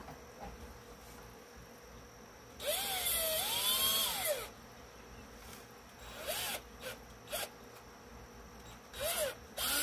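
Electric drill running in trigger bursts while drilling a hole: one run of about two seconds whose motor pitch rises and falls, then several short blips.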